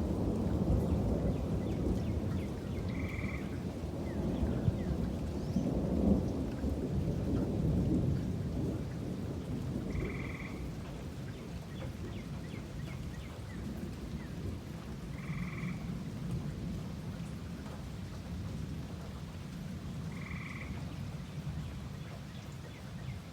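Rain falling with rolling thunder, the rumble loud for the first several seconds and then fading to a steadier patter. A frog gives four short calls about five seconds apart over the rain.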